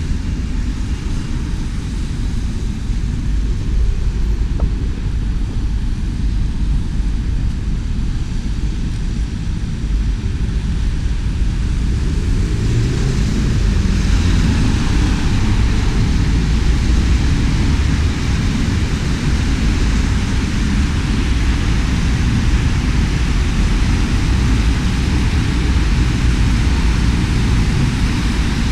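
Rainy outdoor street ambience: a steady low rumble with a hiss of rain and wet-road noise that grows louder about twelve seconds in.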